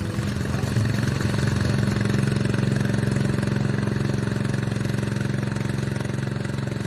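Engine of a vehicle working the pulling track, running steadily at an even speed and getting a little louder about a second in.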